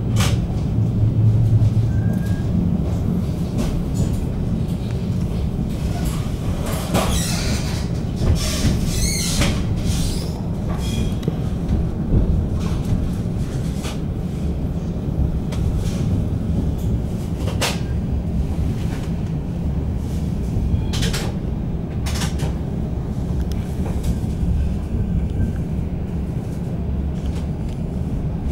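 Inside a VR double-deck InterCity carriage moving along the track as the train nears its final stop: a steady low rumble with scattered clicks and knocks from the wheels over rail joints and points, and a brief high, wavering wheel squeal about seven to ten seconds in.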